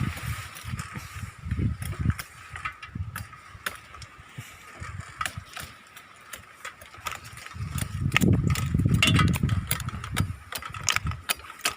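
Strong, gusty wind buffeting the microphone in low rumbling surges, heaviest about eight to ten seconds in, with scattered sharp clicks and rattles throughout and a faint steady high tone.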